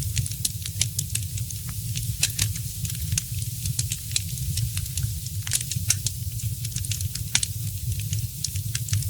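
Wood fire crackling in a fireplace: irregular sharp pops and snaps, a few louder ones about two and five and a half seconds in, over a steady low rumble.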